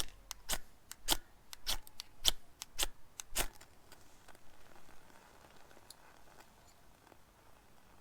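A fire starter struck repeatedly to light a fire pit: about seven sharp, evenly spaced clicks over the first three and a half seconds, then a faint steady hiss with a few small ticks.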